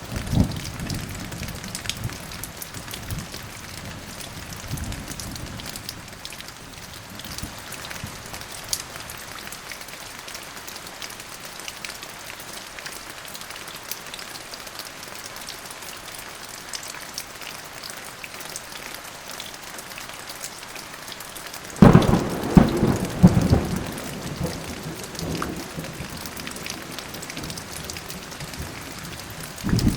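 Steady rain falling, with low thunder rumbling in the first couple of seconds. A sudden loud thunderclap comes about 22 seconds in and rumbles on for about two seconds, and more thunder starts right at the end.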